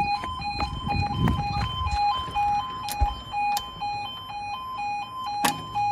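Level crossing audible warning alarm sounding: a two-tone electronic yodel that alternates between a lower and a higher note about twice a second. A low rumble runs under it for the first two seconds.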